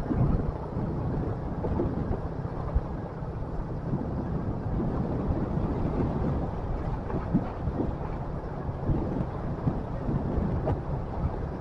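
Motorcycle engine running under way, mixed with wind noise on the microphone: a steady low rumble with small irregular knocks.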